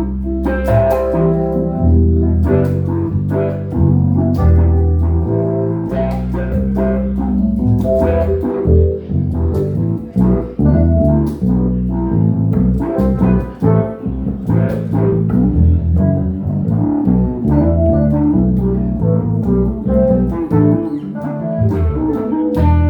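Instrumental jam of guitar and bass guitar playing together, with a moving bass line under plucked guitar notes.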